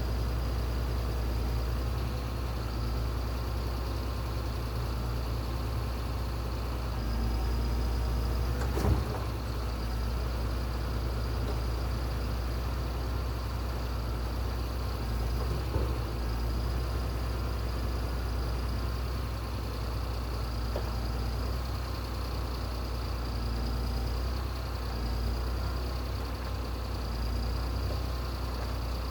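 Heavy machine engine running steadily with a low drone and a faint high whine, with two short knocks about nine and sixteen seconds in.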